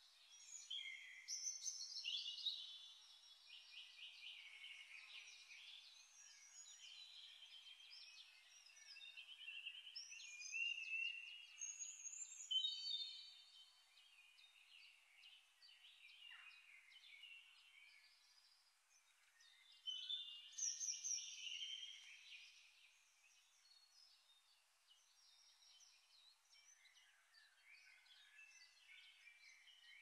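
Faint birdsong: repeated warbling, chirping calls, loudest in spells near the start, about ten seconds in and again about twenty seconds in.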